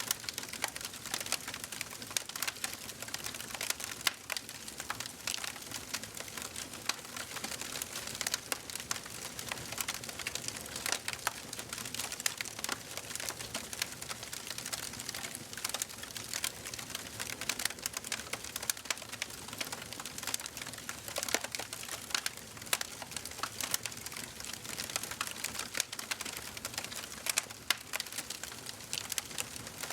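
Wood fire crackling in a fireplace: a steady hiss with dense, irregular sharp pops and snaps.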